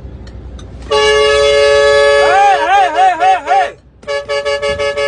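Two-note vehicle horn held on continuously for about three seconds, with a wavering tone that rises and falls joining it partway through. After a brief break the horn sounds again in rapid short pulses.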